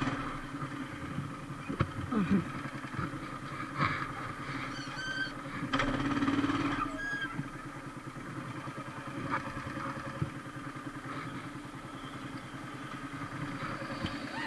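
Motorcycle engine running steadily, with a few scattered clicks and brief high-pitched tones about five and seven seconds in.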